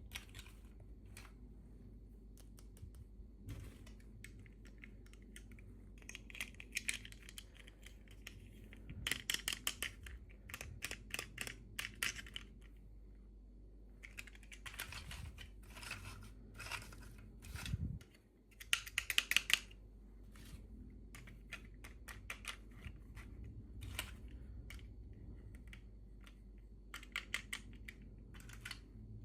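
Hands handling small plastic toy packaging during an unboxing: bursts of crinkling, clicking and tapping that come in several clusters with short pauses between.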